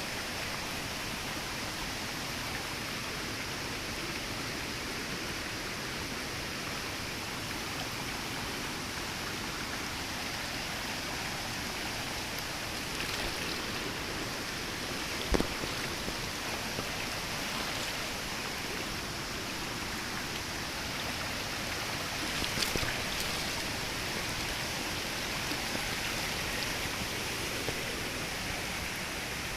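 Steady rush of flowing stream water, with one sharp click or knock about halfway through.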